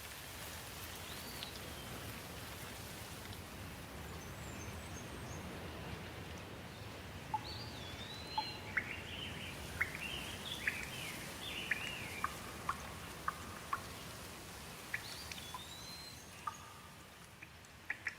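Steady rain hiss with a bird calling over it in short whistled notes that sweep up and down, most of them bunched together in the middle. Near the end, sharp drips of water tick in.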